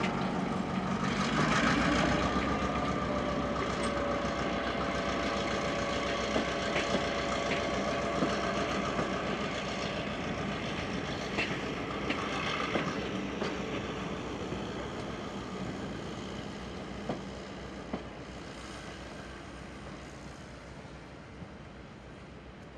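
Passenger train rolling by on steel wheels behind diesel locomotives, a steady rumble with scattered knocks of wheels over rail joints, fading steadily as the train moves away.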